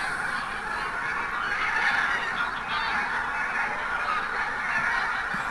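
A large flock of wild geese calling together, a dense, unbroken chorus of overlapping honks.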